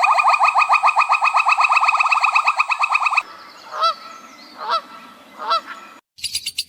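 A large bird calling in a loud, rapid run of short rising honking notes, about ten a second, that stops about three seconds in. Three single calls follow, spaced under a second apart. Just before the end, a different fast, high-pitched pulsing call starts.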